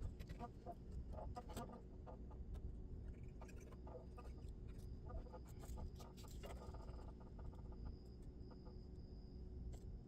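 Faint small clicks and taps of hand work on a model locomotive's wiring, tools and parts being handled during soldering, thinning out after about seven seconds, over a faint steady hum.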